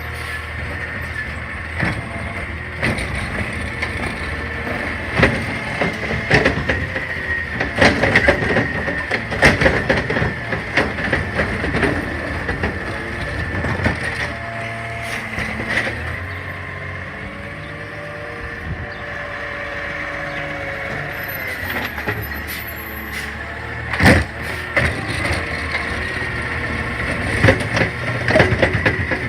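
CNG garbage truck working a collection stop: the engine running with a steady high whine, and repeated metal clanks and bangs, the loudest about 24 seconds in.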